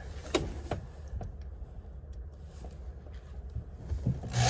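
A few faint clicks and knocks of hardware being handled over a low rumble; shortly before the end a power drill starts whirring.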